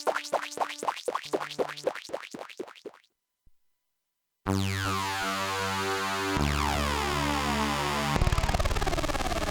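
Jeannie polyphonic synthesizer playing a quick run of short plucked notes that stops about three seconds in; after a short pause it holds a bright, sustained chord with a sweeping, phasing shimmer, changing chord twice.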